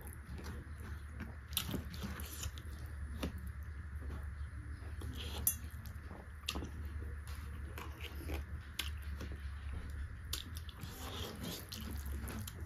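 A person chewing and eating beef curry with the mouth close to the microphone: a run of short, wet mouth clicks and smacks at irregular intervals, the sharpest about five and a half seconds in, over a steady low hum.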